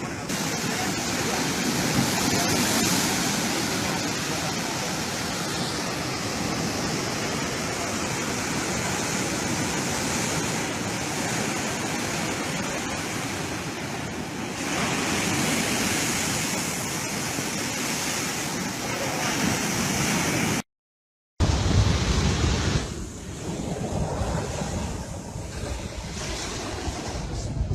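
Heavy sea surf: large waves breaking and washing up the beach in a continuous rush of water, briefly cut to silence about two-thirds of the way through.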